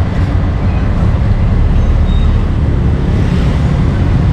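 Steady low rumble of street traffic, with no distinct knocks or voices standing out.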